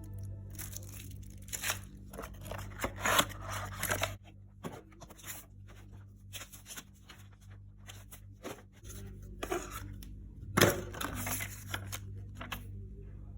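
Cardboard and plastic packaging being handled while a webcam is unboxed: irregular tearing and crinkling with scattered clicks and knocks, the loudest a sharp knock about ten and a half seconds in. A steady low hum runs underneath.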